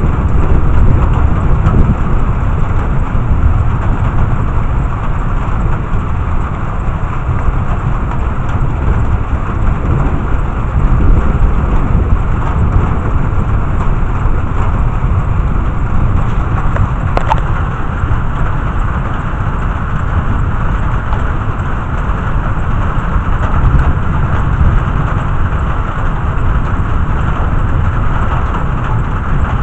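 Thunderstorm: steady heavy rain with a continuous low rumble underneath, and a single small click about two-thirds of the way through.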